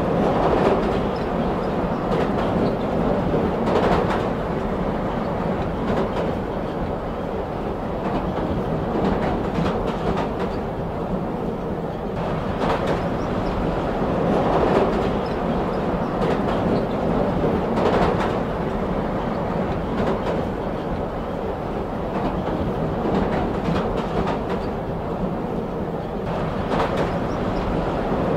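Train running on rails: a steady, continuous rumble with clattering strokes from the wheels every few seconds.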